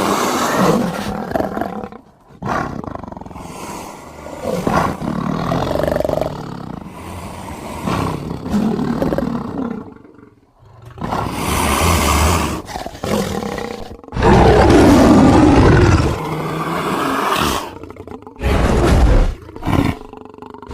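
Big-cat roars and growls making up a creature sound effect assembled from lion, tiger and leopard recordings: a string of separate calls with short breaks, the loudest and deepest about two thirds of the way through, then two short calls near the end.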